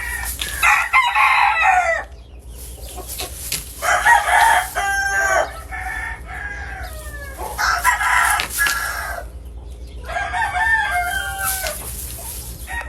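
Game roosters crowing one after another: about four long crows, some overlapping.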